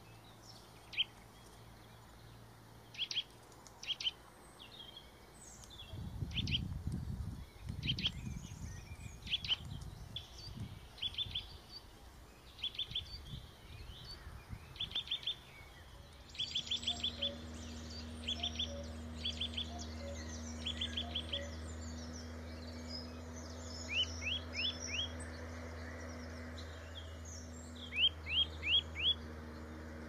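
Wild birds chirping: short, high calls in quick runs of three to six notes, repeated every second or two over a faint outdoor background. A steady low hum comes in about halfway through.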